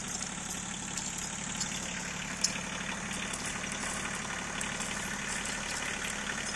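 Tractor engine running steadily at low speed, with a few sharp clicks.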